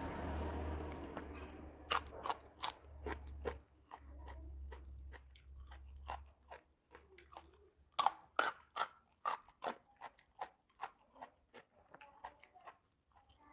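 Close-up mouth sounds of biting and chewing crunchy raw vegetables, starting with a raw long bean: many sharp, irregular crunches, with busy runs about two seconds in and again around eight seconds in.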